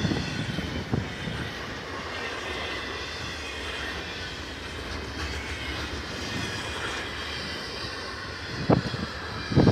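Train passing with a steady rumble and rush of noise, broken by a few short low thumps, one about a second in and two close together near the end.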